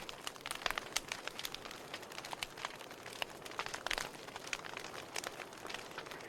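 Wood fire burning and crackling: irregular sharp pops and snaps over a soft steady hiss, with a cluster of louder pops about four seconds in.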